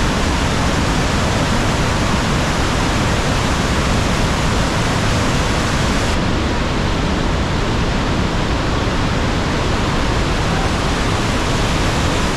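Kakabeka Falls, a large waterfall, pouring: a loud, steady rush of water that is heard as "ripping". The hiss at the top end thins slightly about six seconds in.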